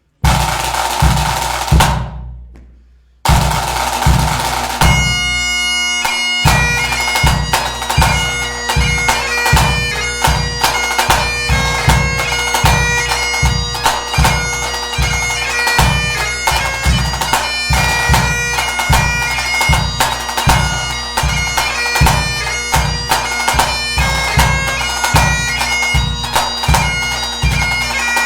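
Pipe band bass drum beating steadily, about two strikes a second, under Highland bagpipes playing a tune over their steady drones. The sound drops out briefly about two seconds in, then the pipes and drum carry on.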